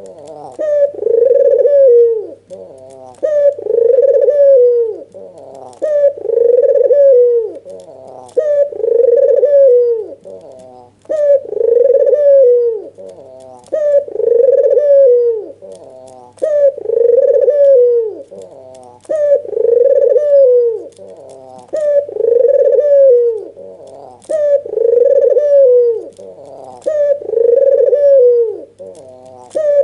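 White red-eyed Barbary dove (puter putih mata merah) giving its excited bowing coo over and over, a loud rolling coo about every two seconds, with softer shorter notes between.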